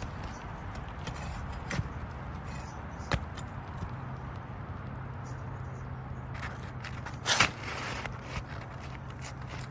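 Work on an asphalt shingle roof: a few scattered taps and clicks and one short, loud scrape about seven seconds in, over a steady low hum.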